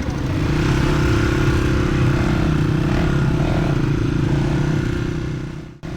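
Honda CRF dirt bike engine running steadily, a little louder and faster than idle at first, as if pulling away. It cuts off suddenly near the end.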